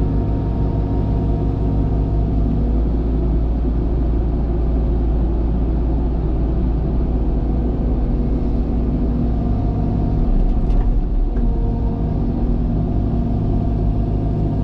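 Diesel engine of a heavy earthmoving machine running steadily under work, with a deep rumble. A few brief knocks come about ten to eleven seconds in.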